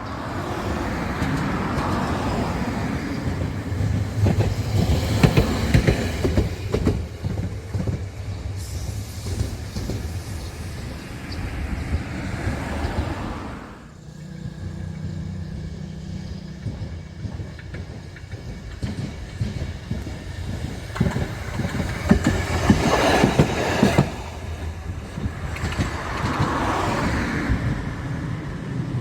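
Rail vehicles passing close by, their wheels clacking over rail joints, in two passes: the first fades out sharply about halfway through, and a second swell of clicking comes near the end.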